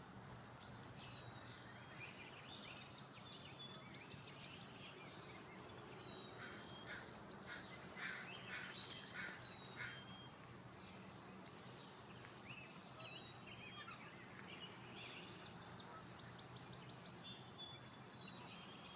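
Faint chorus of wild birds singing and chirping, many short calls and trills overlapping, over a steady faint low hum.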